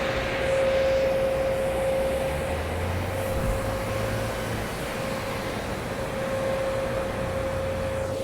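Steady mechanical hum with a constant mid-pitched whine, and a low engine rumble that swells for a couple of seconds in the middle, as of a vehicle moving close by.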